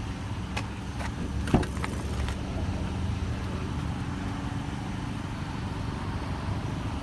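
Pickup truck's engine idling with a steady low hum. A few sharp knocks come in the first couple of seconds, the loudest about a second and a half in.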